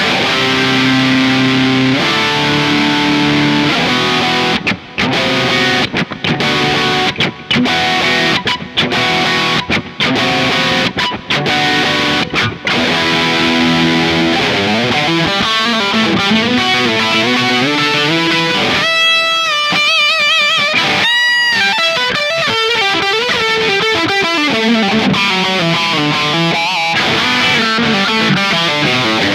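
FGN Expert Odyssey EOS-FM-R electric guitar played through an amp with a driven tone. It opens with held chords, moves to short chopped chords with brief silences between them, then breaks into fast single-note lead lines, with high notes bent and shaken with vibrato about two-thirds of the way through.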